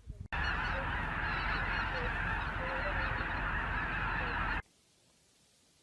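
A large flock of geese calling all at once, a dense, steady din of honking that starts suddenly and cuts off abruptly after about four seconds.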